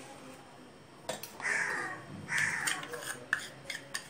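A bird calling twice with harsh caws, each about half a second, a second apart; a few light clicks follow near the end.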